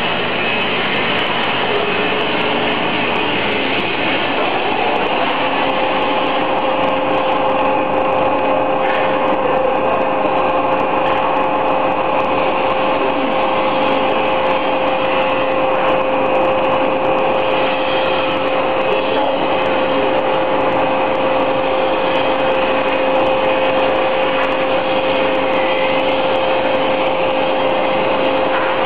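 An industrial machine running steadily with a loud, even noise; a steady whine joins in about five seconds in and holds.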